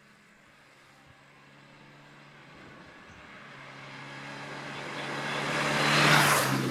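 A road vehicle approaching and passing close by: its engine and tyre noise grow steadily louder, peak near the end and then start to fade.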